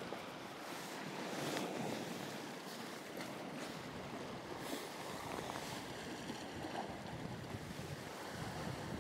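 Sea waves washing against a rocky shore, with wind buffeting the microphone in a steady noise.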